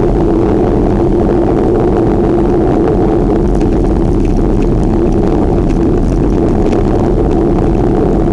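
Steady rushing noise of wind buffeting the microphone while riding a bicycle, loud and unbroken.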